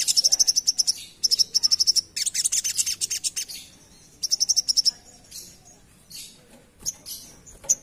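Little spiderhunter (sogok ontong) singing in rapid trills of high, sharp repeated notes. The trills come in four fast bursts, each under a second long, followed by softer scattered chirps over the last few seconds.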